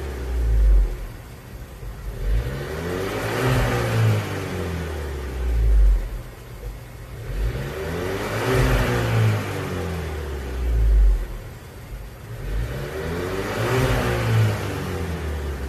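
VW Golf Mk7 1.2 TSI turbo four-cylinder revved repeatedly through an aftermarket rear muffler with four exhaust tips. It settles back to idle between about six quick throttle blips spaced roughly two and a half seconds apart.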